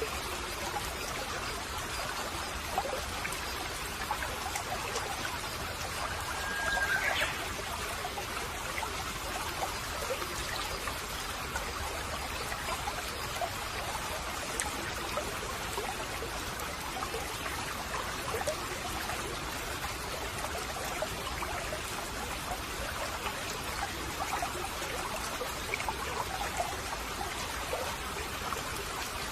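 Small stream trickling and babbling steadily. A short, high whistled note, held about a second and ending in an upward flick, sounds about seven seconds in.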